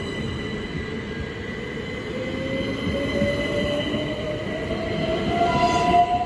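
Class 387 electric multiple unit pulling away, its traction motors giving a whine that rises steadily in pitch as it accelerates, over the rumble of wheels on rail.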